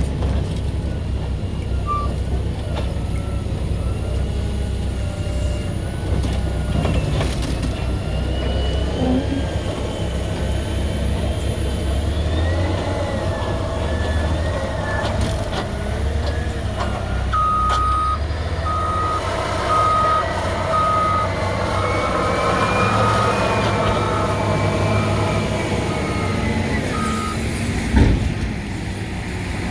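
Caterpillar 120M2 motor grader's diesel engine working under load, its pitch rising and falling as it pushes dirt. In the second half a reversing alarm beeps about once a second for some ten seconds, and a single sharp knock sounds near the end.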